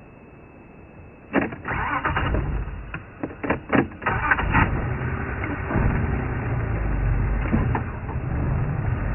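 Game-drive vehicle's engine starting about a second in, with a run of sharp clatters and knocks, then running steadily.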